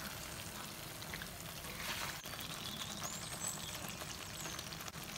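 Creamy chicken sauce sizzling in a karahi over a gas flame: a steady, even frying hiss with faint crackles.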